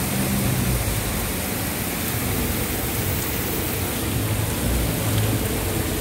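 Heavy rain pouring down with the steady rush of floodwater running across the street.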